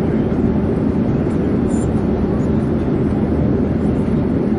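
Airplane in flight: a steady, even low rumble with no change in level.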